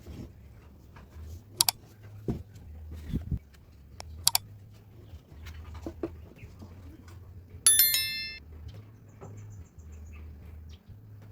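Scattered sharp clicks and dull knocks of hand work over a low steady hum, with one loud, short metallic ring near the end, as of a small metal part struck or dropped.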